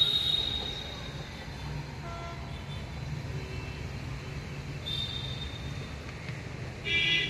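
Trains approaching on electrified tracks, with a steady low rumble. A high-pitched wheel squeal comes at the start and again about five seconds in, and a brief shrill multi-tone horn toot sounds near the end.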